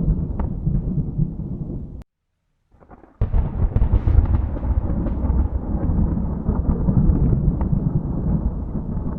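Thunder rumbling low and rolling, cut off abruptly about two seconds in; after about a second of silence a new peal of thunder starts suddenly, louder and brighter, and rolls on.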